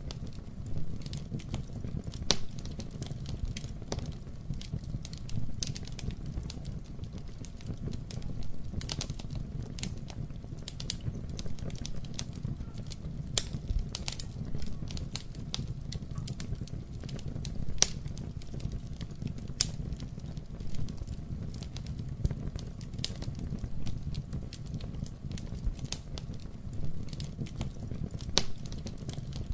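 Campfire burning, with irregular sharp crackles and pops of burning wood over a steady low rumble.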